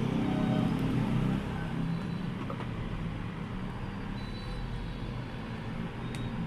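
A motor vehicle engine running nearby over road traffic noise: a low rumble, louder for about the first second and a half, then settling to a steadier, quieter drone.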